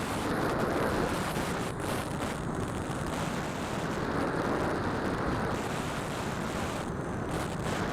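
Steady rush of airflow and motor noise on the microphone of a keychain camera carried aboard a Phantom RC aircraft in flight.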